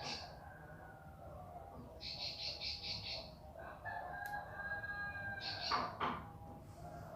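Bar-winged prinia (ciblek pari) singing loud, rapid high trills in short phrases of about a second, one at the start and another about two seconds in, with a quick falling note near six seconds. Through the middle a longer drawn-out call on several steady pitches, like a rooster crowing, sounds in the background.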